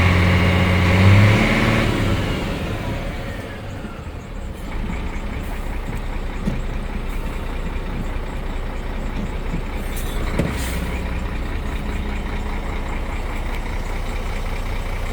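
Scania P114's DC1104 straight-six diesel engine revved up in steps, then dropping back with a falling whistle as it winds down. It settles into a steady idle, with a few light clicks and a short hiss about ten seconds in.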